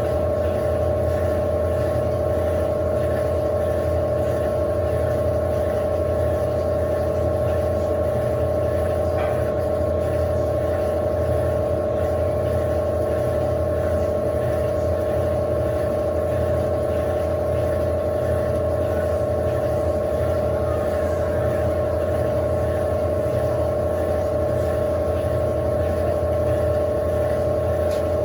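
Electrolux LAC16 16 kg top-loading washing machine running: a steady motor hum with a constant mid-pitched whine that does not change.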